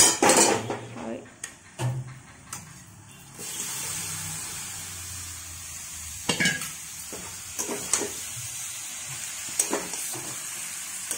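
Marinated chicken pieces going into a hot pot of fried onions and ginger-garlic paste. A few knocks and clinks of bowl and spoon come first, then a steady sizzle starts about three and a half seconds in, with the spoon now and then clicking against the pot as it stirs.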